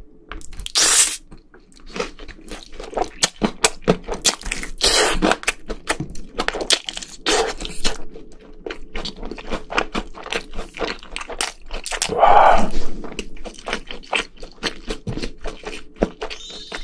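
Close-miked chewing of crispy fried food: a rapid run of crunches and wet mouth clicks, with a few louder crunching bites.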